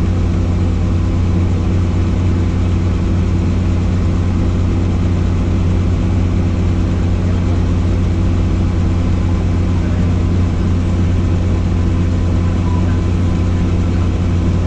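Helicopter's engine and rotor running steadily: an even, loud drone with a deep hum and a stack of steady tones above it, unchanging throughout.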